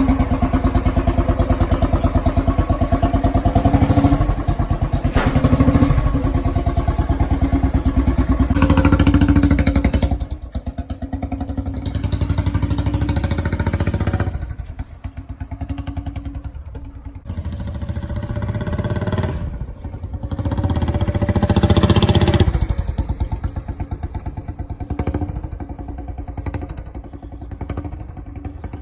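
Royal Enfield Classic 500's single-cylinder engine running through a Punjab long-bottle (dholki) silencer, with an even thumping beat. The revs rise and fall several times, the biggest rise about three-quarters of the way through.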